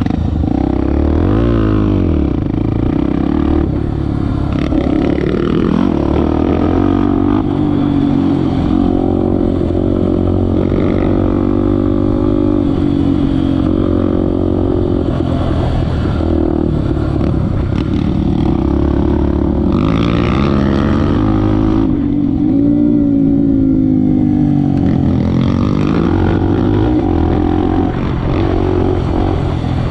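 Honda XR250 Tornado's single-cylinder four-stroke engine being ridden hard, its pitch climbing and dropping again and again as the throttle is worked through the gears.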